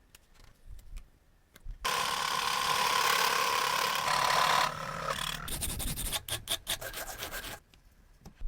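Abrasive work on metal: a steady rasping sound for about three seconds stops suddenly, followed by a run of quick strokes, like a file or brush worked back and forth.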